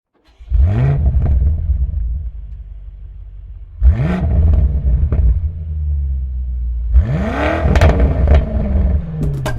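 Car engine revved three times: each time the pitch sweeps sharply up over a low rumble, then settles back, the last rev falling away near the end.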